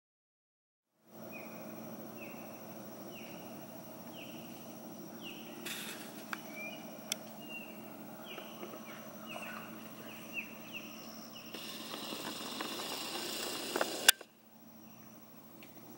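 Silent for about a second, then a bird calls over and over in short falling chirps, about one a second, over a steady insect drone. Near the end a hiss swells and ends in a single sharp snap, the loudest sound.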